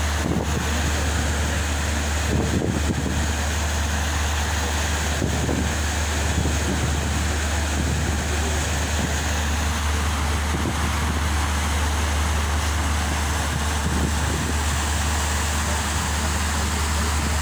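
Steady low drone of a ship's engine, with wind rushing over the microphone.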